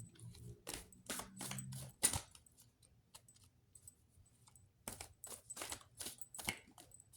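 Tarot cards being handled: a run of light, sharp clicks and snaps, then a pause, then another run of clicks.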